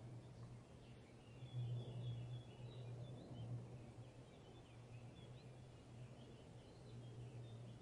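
Faint, scattered chirps of small birds over a steady low outdoor rumble.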